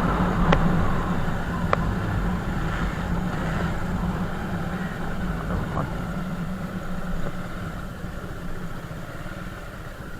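Motorcycle engine running steadily, slowly growing fainter, with two sharp clicks in the first two seconds.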